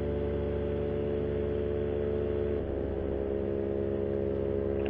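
Paramotor engine and propeller running steadily in flight, a constant droning note whose pitch shifts slightly about two and a half seconds in. The propeller has been repaired and rebalanced with added weights.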